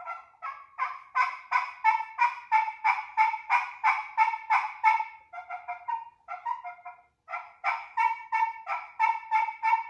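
Slate-over-glass pot-style friction turkey call worked with a striker, giving a long run of short turkey yelps, about three a second, with a brief pause about seven seconds in.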